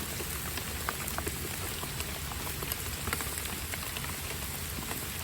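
Steady rain falling, with many irregular sharp clicks of individual drops striking nearby surfaces.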